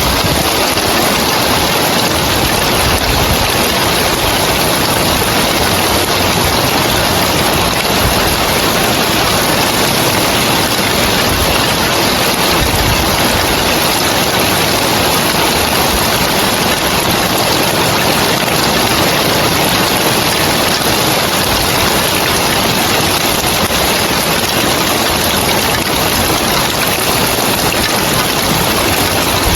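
Rain falling steadily on roof tiles, an even wash of noise that doesn't let up.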